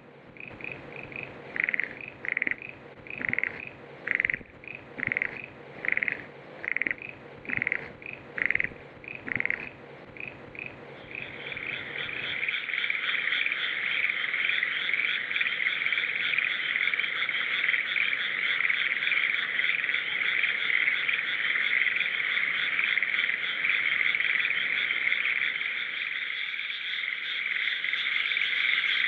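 Small frog calling, short calls repeated about once or twice a second. From about eleven seconds in, a continuous dense high-pitched trilling chorus takes over and stays steady.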